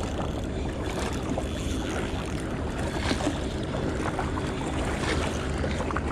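Steady wind and water noise with a low, even hum underneath and scattered small knocks.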